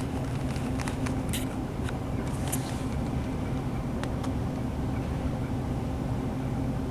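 Class 185 diesel multiple unit running, heard from inside the carriage: a steady low drone from the underfloor diesel engine and the wheels on the track, with a few short sharp clicks and rattles over it.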